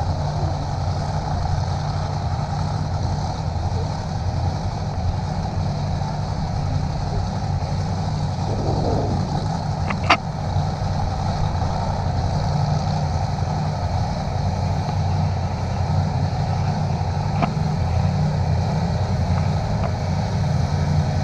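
An engine running steadily with a low, even hum, with a sharp click about ten seconds in and a fainter one about seven seconds later.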